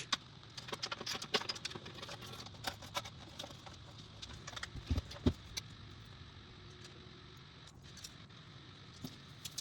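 Light, irregular clicks and taps of cables and small parts being handled inside a PC case. They come thick for the first few seconds, with two louder knocks about halfway, then thin out to a few faint clicks.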